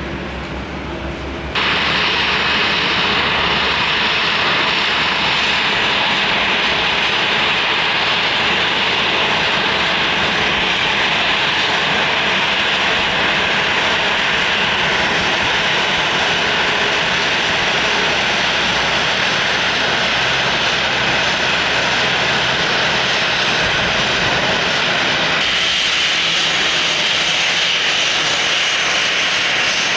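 Airliner engines running loud and steady at close range, jumping suddenly louder about a second and a half in and changing in tone near the end.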